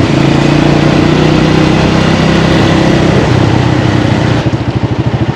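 Small motorbike engine running at a steady speed, then settling into a fast, even putter of idle about four seconds in.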